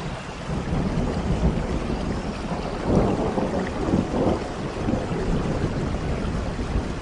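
Steady rain with thunder rumbling underneath, swelling loudest about three and four seconds in.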